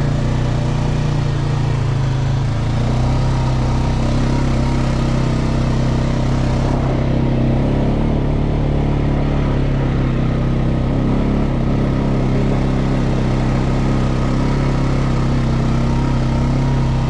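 Off-road vehicle engine running at a steady pace while riding a trail, its pitch holding nearly constant.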